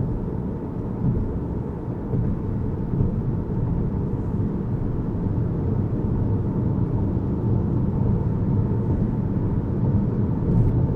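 Loud, steady low rumble of a car on the move, with a faint steady tone above it.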